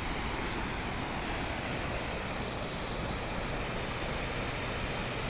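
Steady rushing of water released from the dam, an even noise with no breaks.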